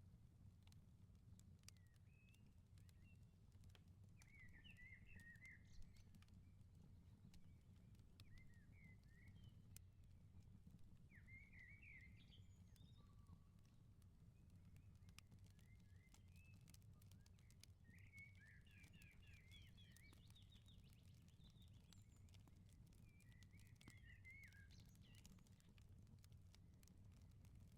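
Faint crackling of a wood fire in an outdoor firepit, scattered sharp pops and ticks over a steady low rumble, with small birds chirping in short repeated phrases throughout.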